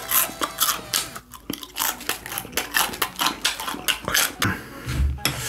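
Crunchy close-up chewing of a raw cabbage leaf wrapped around gummy jelly, with a crisp crunch a few times a second.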